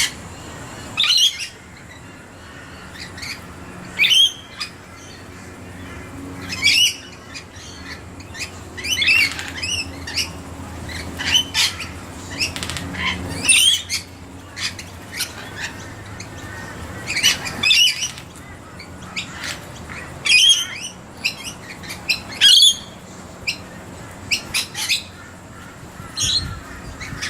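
A flock of rainbow lorikeets screeching: short, shrill calls that come in clusters every second or two throughout.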